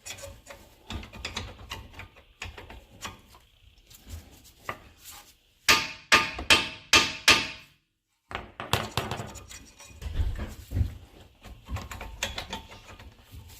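Metal tools clanking and knocking during car suspension work. About halfway through comes a quick run of about five sharp, ringing hammer blows on metal.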